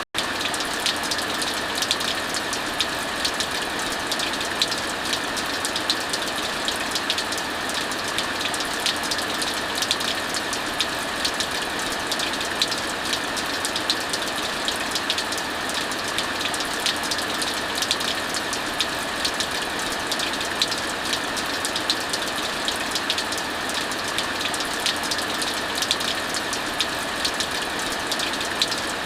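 Heavy rain falling steadily, with a wood fire crackling: a constant hiss dotted with many small irregular pops.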